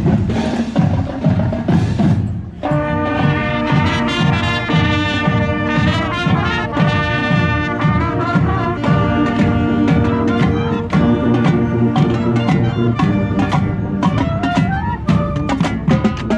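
Marching band playing: drums and cymbals alone at first, then the brass section comes in about two and a half seconds in with sustained chords over a steady drumbeat.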